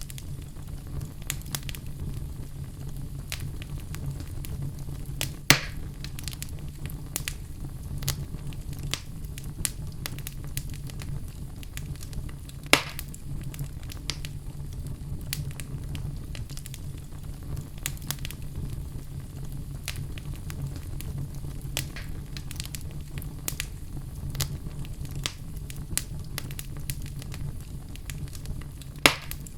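Fire crackling steadily over a low rumble, with frequent small snaps and three louder pops.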